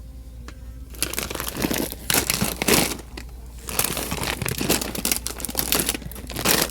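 Crinkling and rustling of a small dry dog food bag being handled, in three spells of a second or two each.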